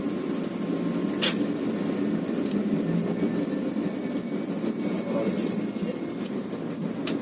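Bus running with a steady low rumble, with a couple of sharp clicks, about a second in and near the end.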